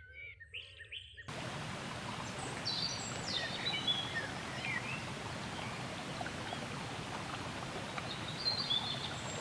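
Wild birds calling. A few clear calls sound over near-silence, then about a second in the sound cuts abruptly to a steady rushing background, with birds chirping and giving short descending trills over it.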